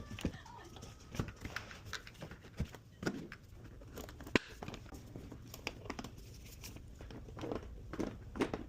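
Irregular handling noise: scattered small clicks and knocks with some rustling, and one sharp click about four seconds in.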